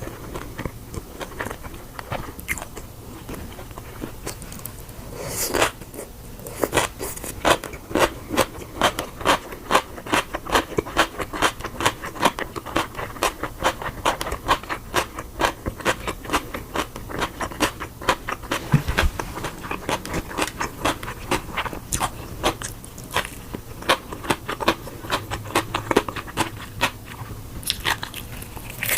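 Firm food being crunched, in a steady run of crisp strokes about two a second.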